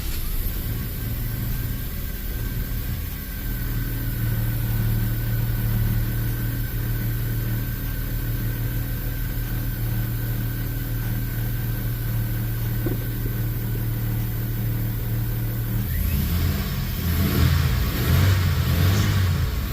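Chevy Astro's 4.3-litre V6 running steadily at idle, just after catching on a new distributor cap and rotor that cured its crank-but-no-start. Near the end it is revved, rougher and louder.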